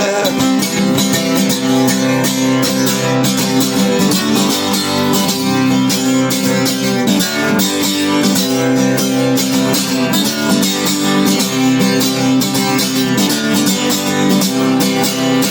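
Instrumental guitar break: strummed guitar chords played steadily in a country-folk style.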